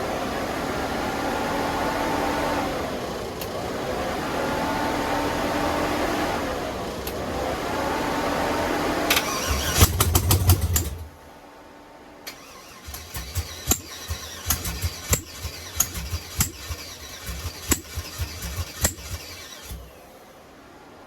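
6.0-litre LS V8 being cranked by its starter, the pitch rising and sagging, then briefly firing with a burst of sharp pops near the ten-second mark before stopping suddenly about eleven seconds in. A run of irregular clicks follows, with the battery run down.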